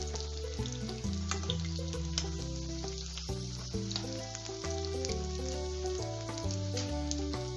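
Chicken momos frying in hot oil in a wok, a steady sizzle with scattered crackles and pops, under background music with sustained bass notes.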